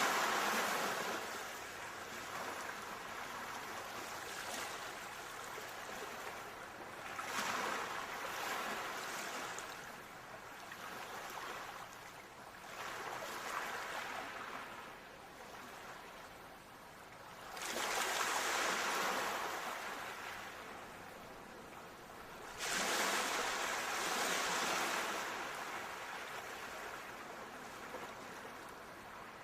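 Ocean waves washing onto a shore, the surf swelling and ebbing in a new surge about every five seconds.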